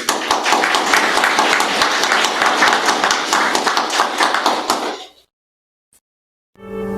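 Audience applauding, a dense patter of many hands clapping for about five seconds, then cutting off abruptly.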